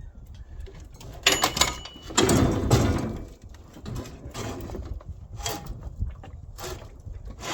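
Metal clanks and knocks, one ringing sharply about a second in, then a scraping rattle lasting under a second, followed by a few lighter knocks as heavy metal parts are shifted about.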